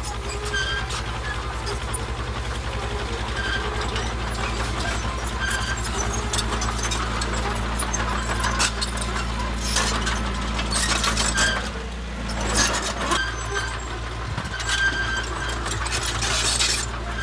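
Bulldozer's diesel engine running steadily under load while its steel tracks clank and squeak, with louder bursts of metallic clatter about halfway through and again near the end.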